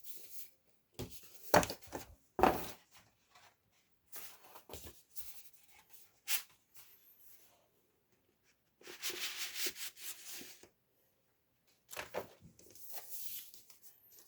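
Cardboard record jacket and paper inner sleeve of a vinyl LP being handled: a few sharp knocks early, then paper rubbing and sliding in stretches, as the sleeve is drawn out and turned over.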